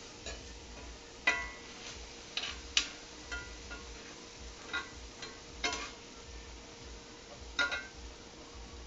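Kitchen utensils and dishes clinking and knocking: about eight separate sharp clinks, some ringing briefly, spread irregularly through the stretch.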